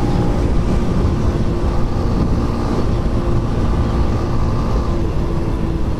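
Motorcycle riding along the road: a steady wind rumble on the helmet microphone over a faint, even engine hum.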